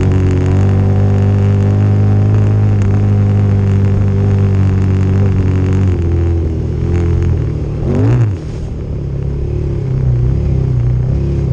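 Motorcycle engine running under steady throttle on a trail ride. It eases off about six seconds in, gives a quick rev up and down about two seconds later, then carries on at lower revs.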